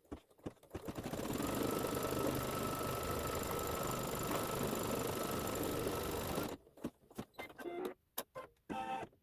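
Embroidery machine stitching a placement line: a steady running whir with a faint whine for about five and a half seconds, stopping abruptly, followed by a few light clicks.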